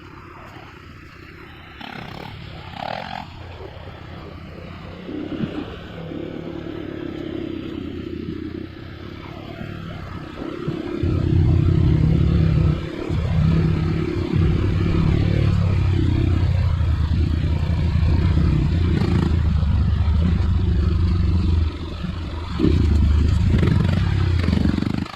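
Trail motorcycle engine, running low at first, then opened up and run hard from about halfway through, with a few brief drops in throttle.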